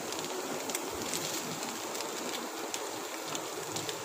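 Beef and onions sizzling steadily in a hot frying pan, with scattered faint crackles.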